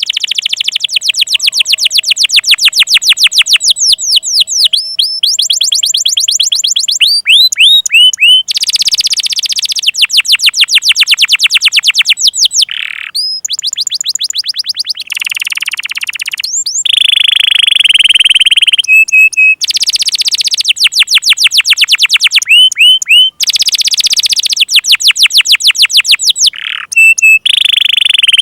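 Domestic canary singing loudly: long rapid trills of fast repeated notes, broken by short swooping whistles and downward-gliding notes. It is a lure song meant to coax young and non-singing canaries into singing.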